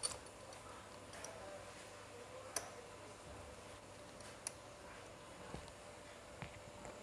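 A few faint, scattered metal clicks from engine parts and tools being handled, over a faint steady hum.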